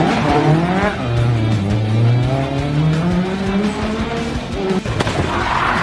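Rally car engine revving hard, its pitch climbing through a gear and then dropping at a gear change near the end, with a few sharp cracks from the exhaust.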